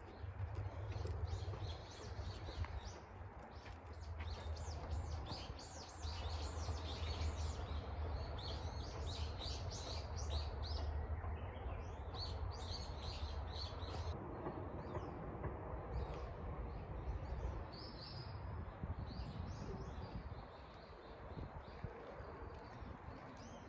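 Several birds chirping and singing, short rapid calls and trills overlapping throughout, thinning out in the second half, over a steady low rumble.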